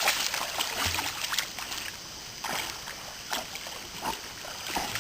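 Creek water splashing irregularly as dogs swim and play in it.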